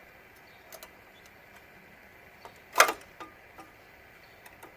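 A single sharp metallic clink from hand tools a little under three seconds in, ringing briefly, with a few faint clicks around it.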